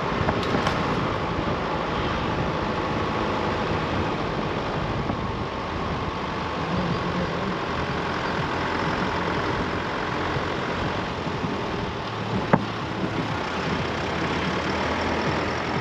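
An engine running steadily, a low, even hum, with one sharp click about twelve and a half seconds in.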